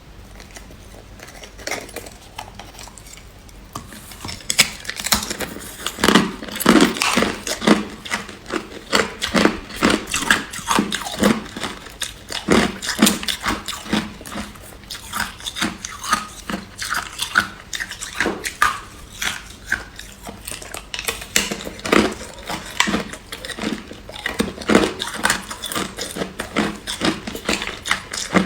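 Hard clear ice being bitten and chewed: an irregular run of sharp crunches and cracks, several a second, starting about four seconds in.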